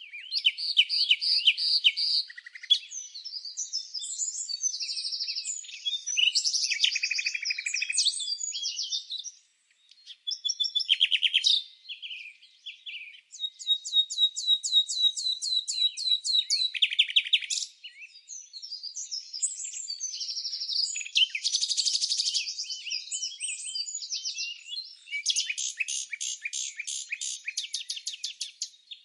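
Songbirds singing: a steady succession of varied trills, rapid repeated notes and chirping phrases, with brief lulls about ten and eighteen seconds in.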